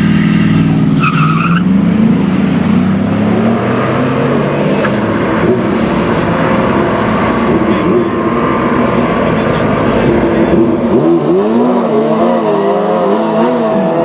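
V8 engines of two performance trucks running hard in a drag race, their pitch sweeping up and down through revs and gear changes, with tire noise underneath.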